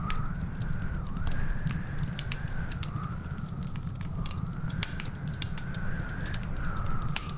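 Wood fire in a fireplace crackling: dense, irregular pops and snaps over a steady low rumble. A faint wavering whistle slowly rises and falls underneath.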